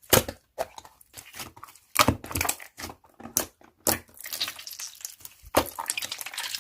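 Slime being squeezed and pressed by hand, giving irregular sharp crackling pops and squishes with short pauses between.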